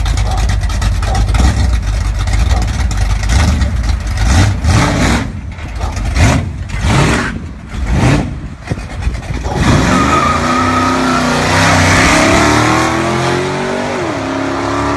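Hot-rodded 1935 Ford tow truck's engine rumbling and revving in repeated surges, then accelerating away, its pitch climbing steadily with a drop and re-climb about a second before the end, as at a gear change.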